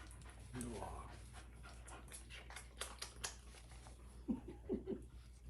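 Dog whimpering: a short rising whine about half a second in, then a quick run of four short squeaky whimpers near the end, with a few light clicks between.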